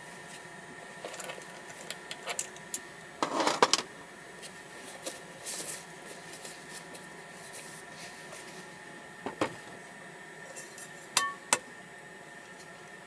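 Scattered light clicks and knocks of small objects being handled at close range, with a brief scrape about three seconds in and a pair of sharper clicks near the end.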